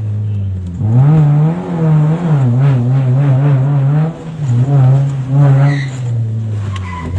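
Motor vehicle engine revving hard, its pitch rising and falling again and again as the throttle is opened and eased, dropping off near the end.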